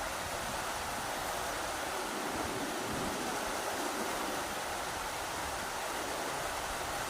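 Rushing river water, a steady, even rush of flowing water.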